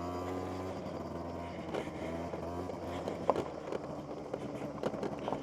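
SYM Jet2 50 scooter's 50cc two-stroke engine running steadily at low revs, with a few short knocks partway through.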